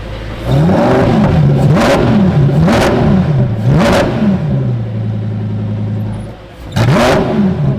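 Sports car engine idling, then revved in about four quick blips that each rise and fall, with sharp cracks from the exhaust near the top of several blips. It settles back to idle and gives one more blip with a crack near the end.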